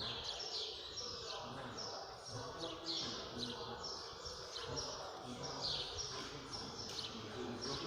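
A bird chirping over and over, short high downward chirps about two a second, over a low background rumble.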